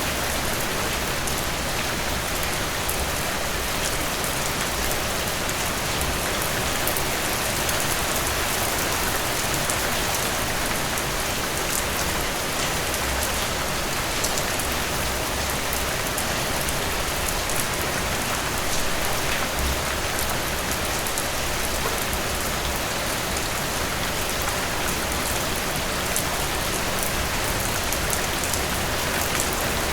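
Steady rain falling, an even hiss with fine patter of drops on a surface, unchanging throughout.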